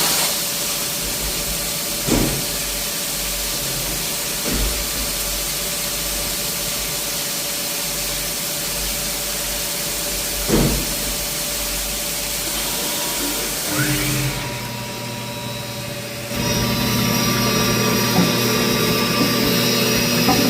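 Machine running with a steady hiss and a few short knocks. About fourteen seconds in the hiss drops away, and a louder hum with several steady tones starts a couple of seconds later.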